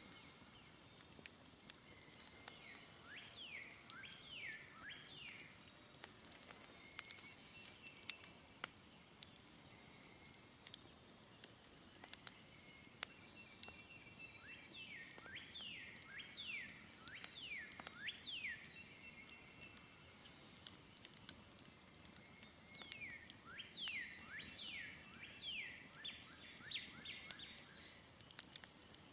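A songbird singing three phrases of quick falling whistled notes, over faint scattered crackles and pops from a smoldering campfire.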